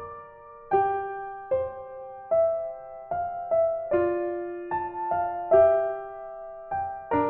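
Slow background piano music: a gentle melody of single notes and chords, each struck and left to fade.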